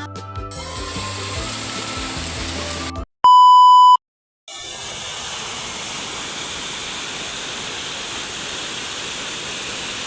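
Background music cuts off after about three seconds, and a loud, steady single-pitch beep sounds for under a second between two short silences. Then the steady rushing of a waterfall fills the rest.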